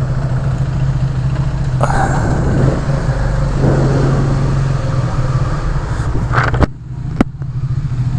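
Motorcycle engine running steadily at low speed under the rider. Near the end it briefly drops away, with two sharp clicks, before it picks up again.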